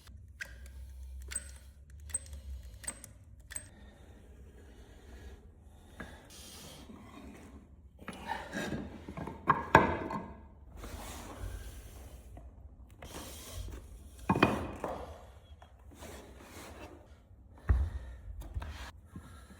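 Hand work on wooden parquet staves: wood rubbing and scraping, with light clicks early on and a few sharp knocks, the loudest about ten seconds in and again near fourteen seconds.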